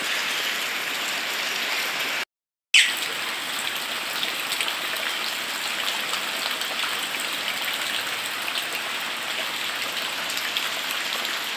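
Steady rain falling, with many small drop hits. The sound cuts out completely for about half a second some two seconds in and comes back with a sharp click.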